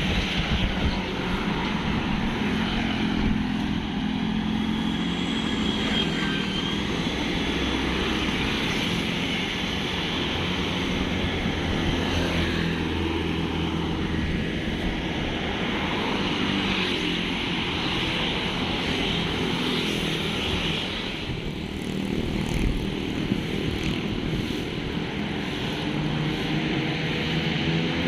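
Vehicle engine running steadily on the move, with road noise.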